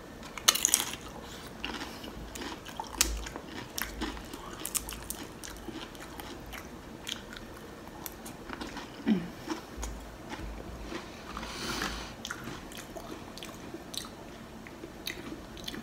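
Close-miked chewing of loaded nachos: tortilla chips crunching between the teeth in irregular bites and crunches. One of the loudest crunches comes about half a second in.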